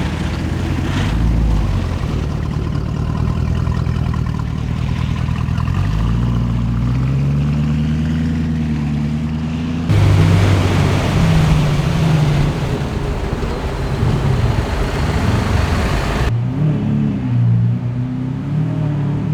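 Lamborghini supercar engines revving and accelerating as the cars pull away, the engine note rising and falling. The sound changes abruptly twice, as one car follows another.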